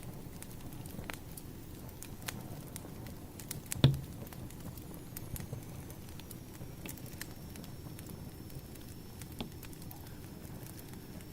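Wood fire crackling: scattered sharp pops and snaps over a low steady rumble, with one loud pop about four seconds in.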